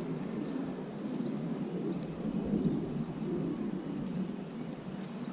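A small bird repeating a short, high, rising call about once a second, over a steady low outdoor rumble.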